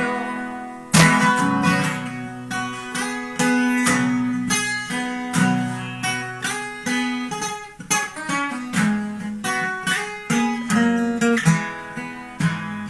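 Acoustic guitar playing without singing: strummed and picked chords that ring out between strokes.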